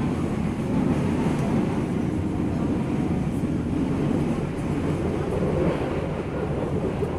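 Steady low rumble inside a moving Indonesian passenger train coach: the running noise of the carriage on the track, heard from the seats.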